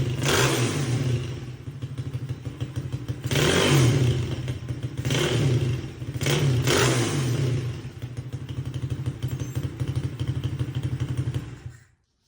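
Motorcycle engine running, with several swells of throttle in the first seven seconds, then a fast, even pulsing idle until it cuts off abruptly near the end.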